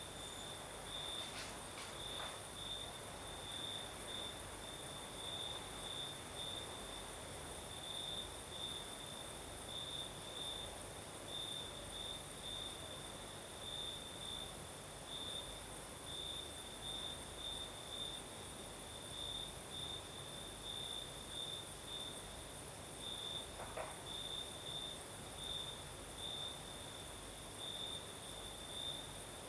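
Crickets chirping in a steady, rapidly pulsing high trill, with a higher continuous insect buzz and a soft, even hiss underneath.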